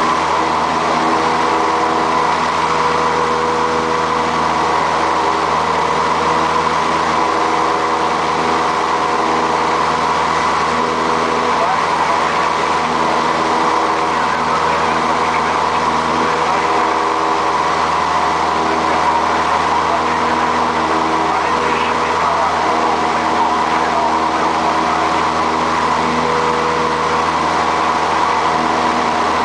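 Single piston engine of a light aircraft running steadily, heard from inside the cockpit, a constant drone with a steady pitch.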